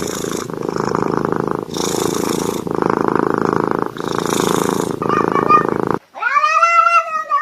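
Domestic cat purring loudly and close, the purr swelling and fading in a steady breathing cycle of about two seconds. About six seconds in, the sound cuts to a cat's long, drawn-out meow.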